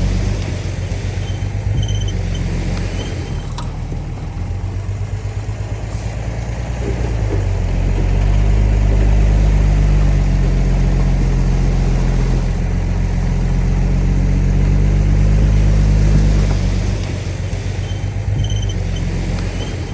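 Bulldozer's diesel engine running under load with a deep, steady note; it grows louder and higher about seven seconds in and drops back about seventeen seconds in.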